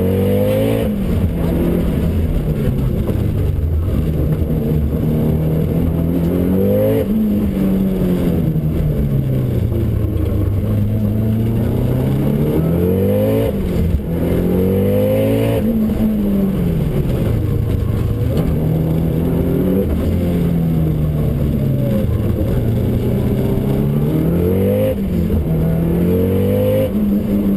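A heavily tuned Subaru STI's turbocharged flat-four engine, heard from inside the cabin, driven hard. Its pitch climbs under acceleration and drops sharply at each gearchange, several times. Between these it sags slowly into corners and climbs again.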